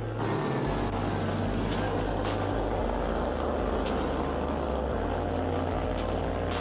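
Junior SM90 mini motorcycle engines racing round the circuit, their pitch rising and falling as the riders rev and change throttle.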